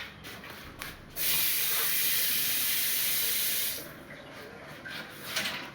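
Water spraying out under pressure from a plumbing fixture: a loud, even hiss that starts suddenly, runs for about two and a half seconds and cuts off sharply.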